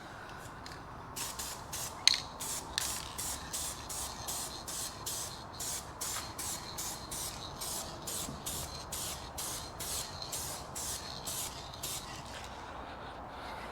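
Aerosol spray can of clear-coat lacquer hissing in quick, short bursts, about three a second, as a light dusting coat goes on a sanded headlight lens.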